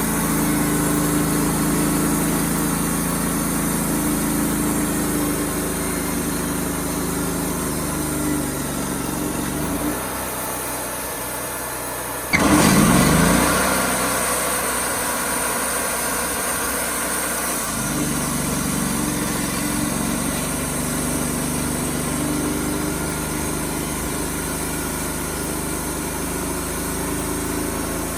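Wood-Mizer LT35HD sawmill running steadily, its engine note changing for several seconds partway through. About twelve seconds in, a sudden loud burst of noise rises over the engine and fades within a couple of seconds.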